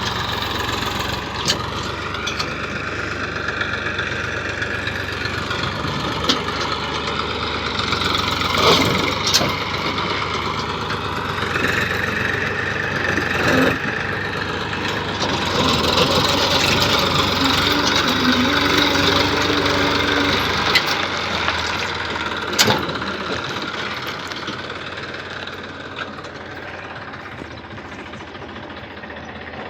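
Tractor diesel engine running and revving under load, its pitch rising and falling as the tractor and trolley strain to climb out of mud. There are a few sharp knocks, and the engine drops lower about two-thirds of the way through.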